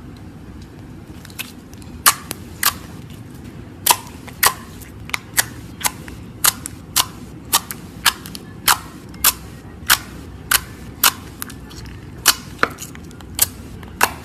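Slime being played with, making sharp popping clicks about two a second from air pockets bursting, starting about a second and a half in.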